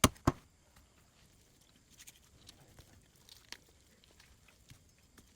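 Two sharp knocks a third of a second apart at the start, then scattered faint clicks and taps.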